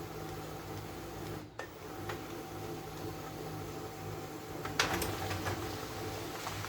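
HP LaserJet P1102 laser printer running, a steady mechanical hum with a brief dip about a second and a half in and a few sharp clicks about five seconds in.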